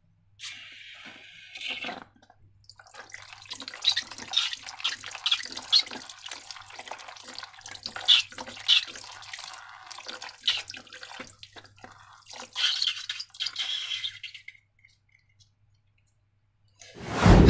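Slime being squeezed and worked by hand, squelching and crackling in quick irregular wet clicks, after a short hiss at the start. A sudden loud burst comes right at the end.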